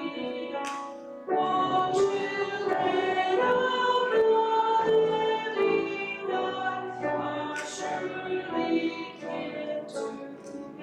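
Voices singing a hymn in long held notes, pausing briefly about a second in.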